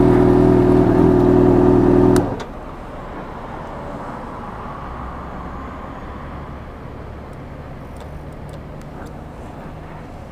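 Motorcycle engine running steadily, then dropping off abruptly with a click about two seconds in. A much quieter low rumble carries on after it.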